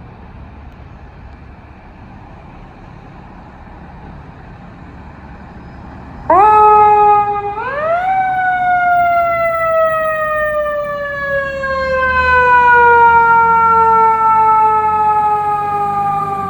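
Low engine rumble, then a fire apparatus's mechanical siren cutting in loudly about six seconds in. It gives a short wind-up blip, winds up fully, and then slowly coasts down in pitch.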